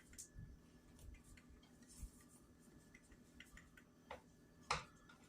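Faint small clicks and light scraping of a screwdriver working a screw out of a Kirby vacuum, with one sharper click near the end.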